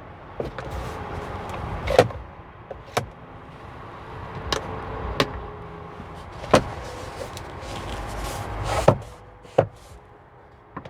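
Scattered clicks and knocks of a car's interior fittings being handled, starting with the glove box, over a faint steady hum.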